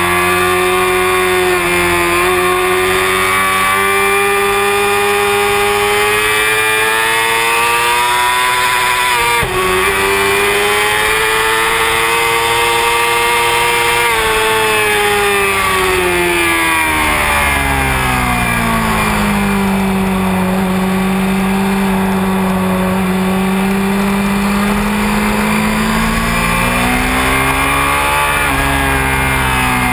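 Honda CBR600 F4i inline-four sport bike engine heard onboard at speed. The revs climb, cut briefly for a gear change about nine seconds in, and climb again. The pitch then falls away as the bike slows, holds low for several seconds, and rises and falls once more near the end, with wind rushing over the microphone.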